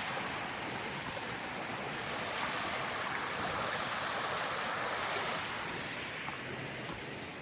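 Creek water running over rocks: a steady, even rush of flowing water.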